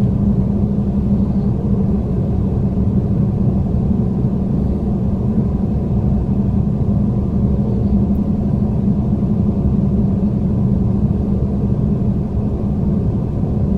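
Odakyu Romancecar limited express train running at speed, heard from inside the passenger cabin: a steady, even rumble of wheels and running gear with a constant low hum.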